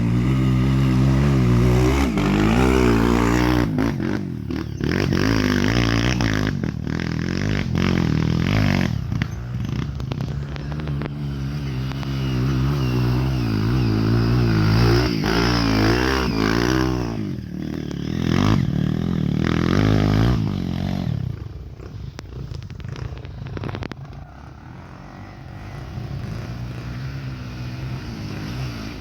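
Single-cylinder four-stroke trail motorcycle engine revving up and falling back again and again through the gears, with knocks and rattles mixed in. The engine note drops and becomes quieter about three quarters of the way through.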